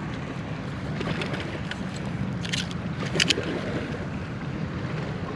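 Steady rushing of water pouring through a flooded spillway, with a few short sharp clicks about two and a half and three seconds in.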